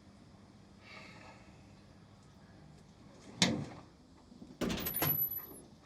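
A door being handled: a sharp clack about three and a half seconds in, then a rattling clatter of several knocks with a brief thin high squeak about a second later.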